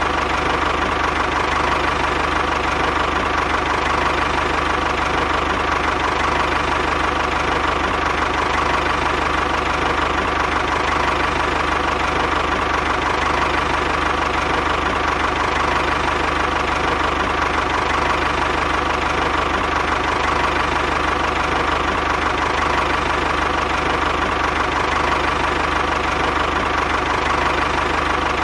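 A motor running steadily with no change in speed: an even drone with a constant high tone.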